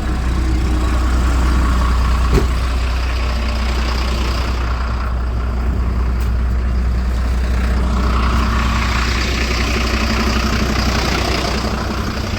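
Fuel-injected truck engine idling steadily just after a cold start from long storage, with one sharp knock about two seconds in.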